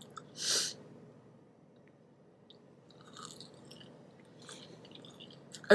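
A person chewing food close to the microphone, with faint soft crunches and mouth clicks, after a brief hiss about half a second in.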